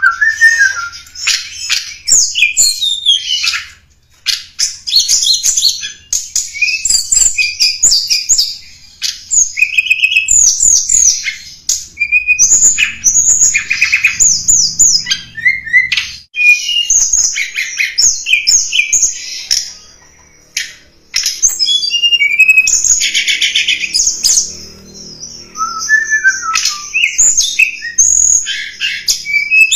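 Tledekan gunung song played as a bird-trapping lure call: rapid high chirps, short rising and falling whistles and buzzy trills, phrase after phrase, with brief pauses about 4, 16 and 20 seconds in.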